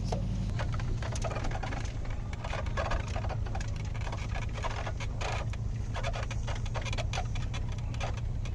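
Subaru EJ20G turbo flat-four running at low speed, heard from inside the cabin as a steady low drone whose note shifts about half a second in, with many small clicks and rattles from the car's interior as it rolls slowly.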